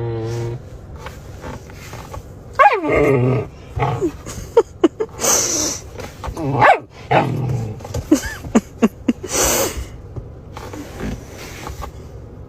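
A dog vocalizing in a run of separate calls that rise and fall in pitch, with a few short hissy bursts among them.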